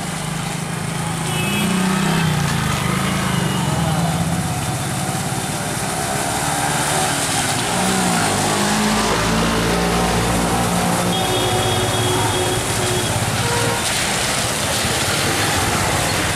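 Street traffic: motor vehicle engines running with a steady wash of road noise.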